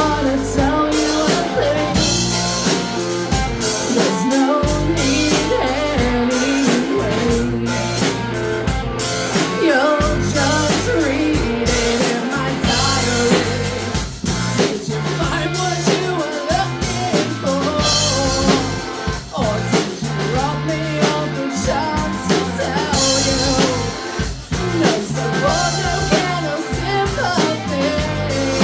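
A rock band playing live: drum kit, with cymbal crashes coming in several times, and guitars.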